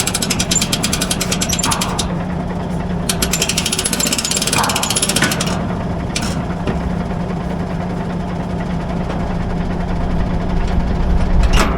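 A diesel vehicle engine running steadily, with two stretches of fast metallic rattling in the first half and a sharp knock near the end.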